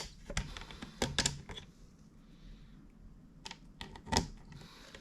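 A handful of sharp clicks and light knocks, bunched near the start and again about four seconds in, with a couple of short rustles between: equipment and leads being handled while a fluorescent lamp is connected as a test load.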